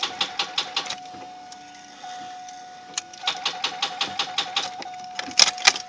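Starter on a 1999 Firebird 3.8 L V6 clicking rapidly in bursts, about six clicks a second, without the engine cranking or catching, while a steady warning chime tone sounds. The owner takes this for a failing starter.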